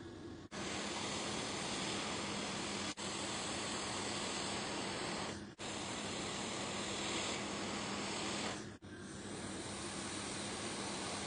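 Steady hiss of rushing air with a faint low hum, broken off abruptly for an instant three times.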